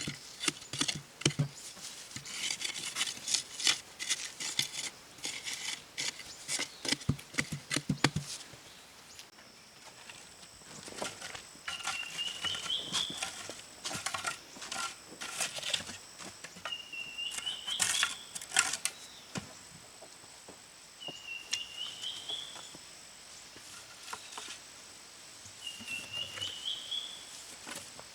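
Sharp taps and knocks of hand work for the first several seconds. Then a bird repeats a short rising call about every four to five seconds over a steady high insect drone, with scattered clicks.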